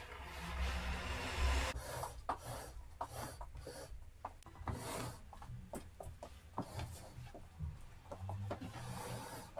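Household cleaning by hand: rubbing and wiping on a wooden surface, with many light knocks and clicks of things being handled and set down.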